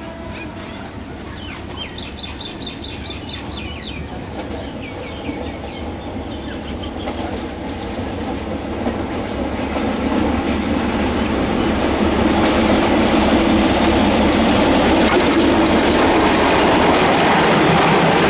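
Diesel-hauled passenger train approaching and passing close by. The rumble builds steadily, and from about twelve seconds in the wheels clatter over the rail joints as the coaches go past.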